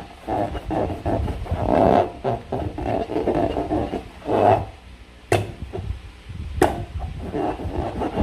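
Slime and a rubber balloon being worked by hand: an uneven run of wet squelching and rubbery squeaks, broken by two sharp snaps a little over a second apart in the second half.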